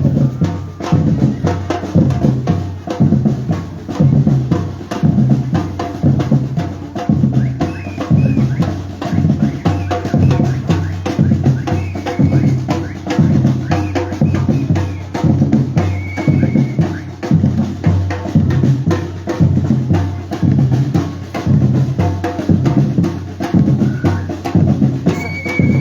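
Batucada drum group playing a steady, driving rhythm, with bass drums and snare drums struck together in a repeating pattern.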